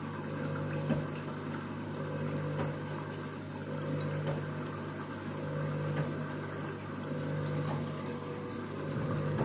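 Candy washing machine taking in water during its first fill: water running into the machine under a steady low hum, with a few light ticks now and then.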